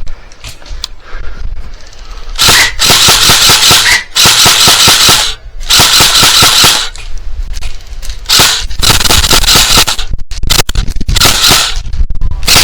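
Airsoft rifle firing: a few single shots, then from about two seconds in a string of loud full-auto bursts, each about a second long with short pauses between.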